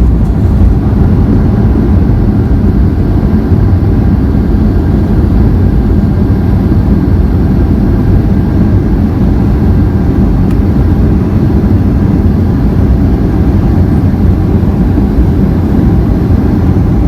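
Steady, loud cabin noise inside a Boeing 737-800: the rumble of its engines and the airflow, with faint steady engine tones above it.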